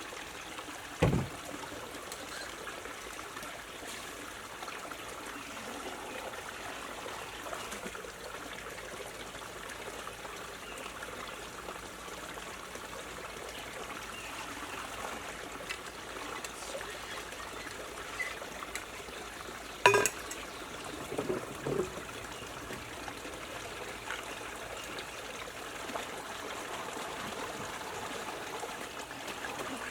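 Spring water pouring steadily from a pipe, with a few sharp knocks: one about a second in, the loudest about two-thirds of the way through, and a couple of smaller ones soon after.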